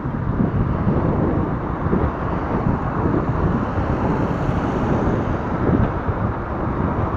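Wind buffeting the microphone while riding a recumbent bicycle: a steady, gusty low rumble with no break.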